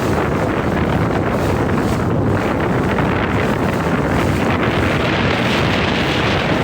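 Strong wind buffeting the microphone on a small boat on choppy water, with a steady rush of water and waves.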